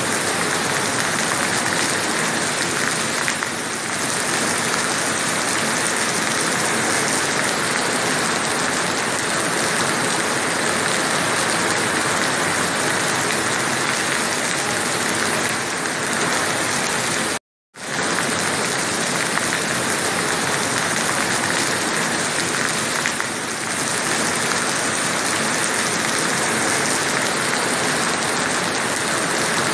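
Heavy rain falling in a steady hiss. It cuts out to silence for a split second a little past halfway.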